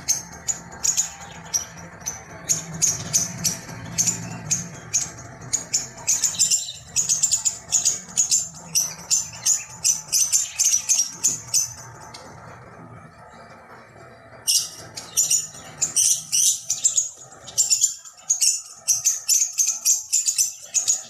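Birds chirping in quick, high-pitched repeated notes, several a second, in long runs that pause for a couple of seconds around the middle.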